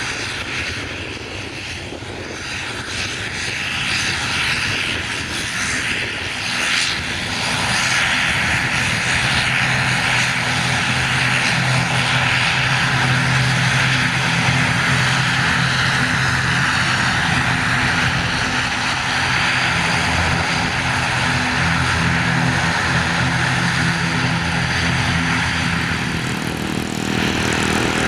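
Airliner engines running, a steady loud roar with a low engine hum, growing louder about seven seconds in and easing slightly near the end.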